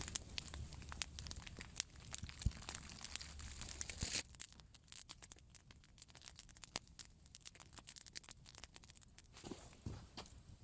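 Campfire crackling, with irregular sharp pops, and a denser scratchy rustle for the first four seconds or so that then thins to scattered pops.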